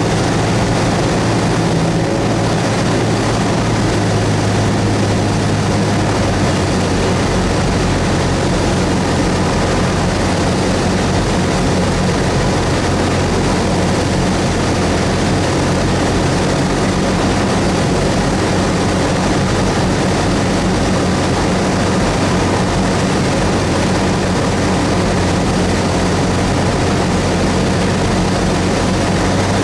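Cessna 172S's four-cylinder Lycoming engine and propeller running steadily, with the engine note shifting slightly a couple of times.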